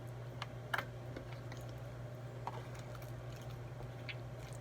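Scattered faint clicks and taps from handling slime-making containers and ingredients, the loudest about three quarters of a second in, over a steady low hum.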